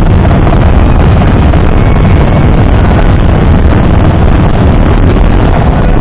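Heavy wind noise buffeting the microphone while riding: a loud, steady rumble with no let-up.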